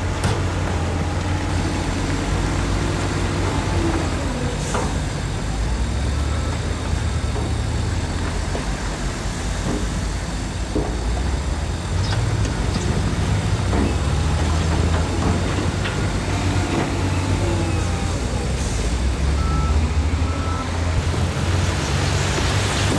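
Heavy diesel construction machinery running under load, the engine note rising and falling as it works, with a few scattered knocks.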